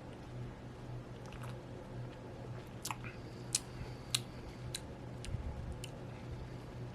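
Faint lip smacks and tongue clicks of someone tasting a drink, about half a dozen sharp little clicks between about three and six seconds in, over a steady low hum.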